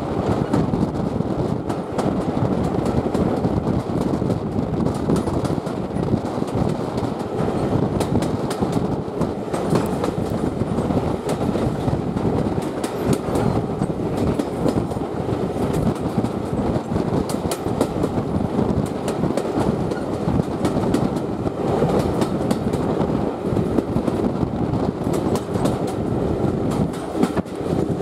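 Railway coaches running at speed behind a steam locomotive: a steady rumble of wheels on rails, with irregular clicks and clatter from the wheels over the track. Heard from an open carriage window.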